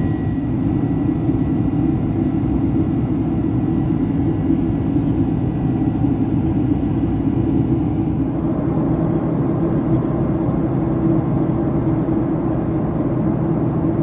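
Steady roar of a Boeing 767-300's jet engines and rushing air heard inside the passenger cabin. A faint high tone fades out and the roar gets a little brighter about eight seconds in.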